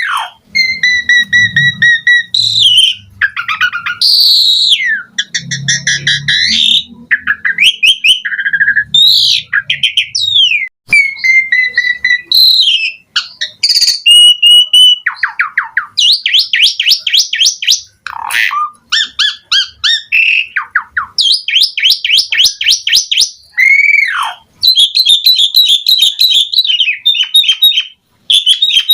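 Javan pied starling (jalak suren) singing a long, varied song: clear whistles, downward slurs and fast, dry rattling trills one after another with short pauses.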